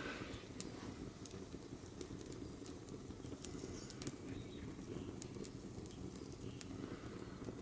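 Firewood burning in a mangal, crackling with scattered sharp pops over a steady low noise.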